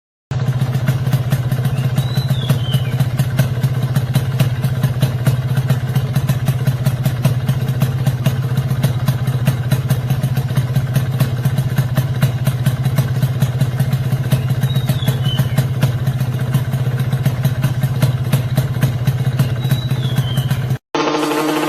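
Honda NSR SP's two-stroke engine idling steadily through its exhaust, a fast even run of pulses at constant pitch with no revving. It cuts off suddenly near the end.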